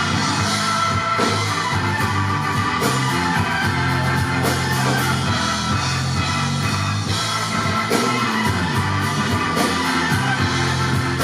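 Anatolian rock band playing live: electric guitar and bass over a drum kit with a steady cymbal beat, an instrumental passage without vocals.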